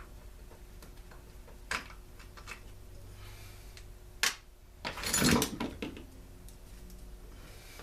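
Workbench handling noises while taking a small two-stroke leaf blower apart: a few light clicks, a sharp click a little past the middle, then about a second of clattering and rustling as parts are handled.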